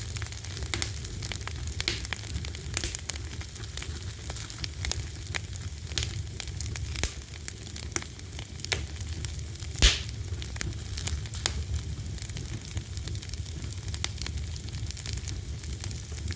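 Wood fire burning with frequent irregular crackles and pops over a low steady rumble; one sharper pop about ten seconds in.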